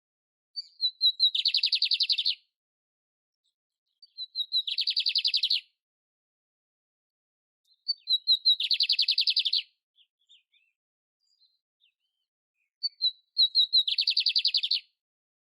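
Canário-império singing: four near-identical phrases, each a few short, high introductory notes leading into a fast rattling trill lasting about a second, repeated every four seconds or so, with a few faint chips in between.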